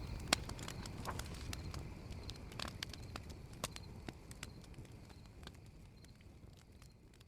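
Campfire crackling: scattered sharp pops and snaps over a low rumbling hiss, fading out gradually.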